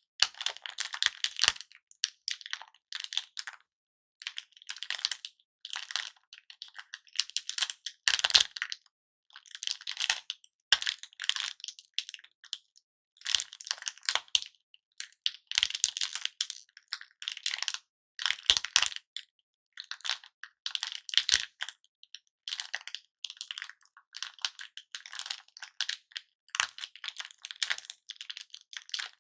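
Close-miked crinkling and crackling from handling cellophane-wrapped lollipops, in short irregular bursts with brief pauses between, and a few sharper taps.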